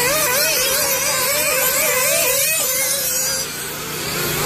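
Several nitro-powered RC buggy engines buzzing at high revs, their pitch rising and falling over and over as they throttle on and off around the track.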